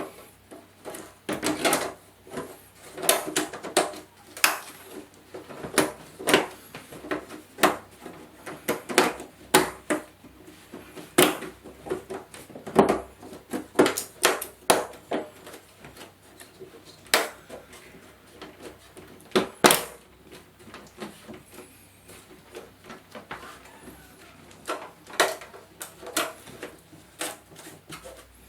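Irregular clicks, taps and knocks of hard parts being handled and set down, a few every second with short pauses, with a couple of louder knocks about halfway and two-thirds of the way through.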